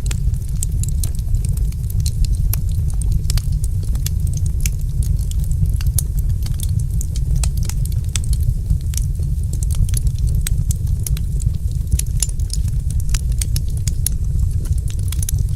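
Wood fire crackling, with frequent irregular sharp pops and snaps over a steady low rumble of the burning fire.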